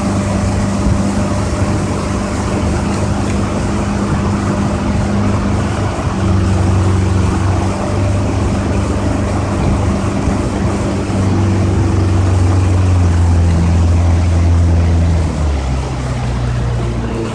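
Yamaha 115 hp two-stroke outboard motor running with the boat underway, over a steady rushing noise. Its note shifts a few times as the throttle changes and drops lower near the end.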